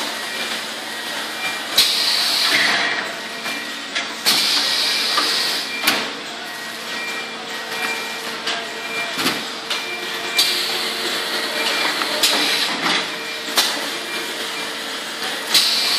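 Semi-automatic bottle shrink-wrap packaging machine with a pusher running: a steady hum under repeated clunks and short bursts of hiss every couple of seconds.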